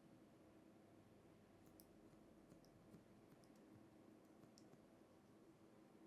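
Barber's scissors snipping hair faintly: a few scattered thin clicks over quiet room tone.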